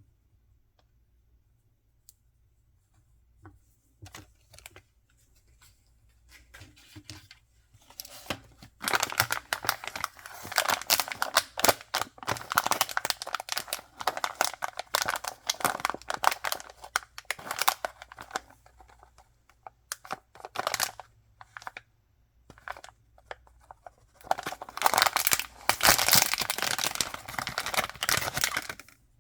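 Packaging being torn open and crinkled by hand, with two long stretches of dense crackling and tearing, the second one starting after a short pause near the end. Before these there are a few seconds of soft handling sounds.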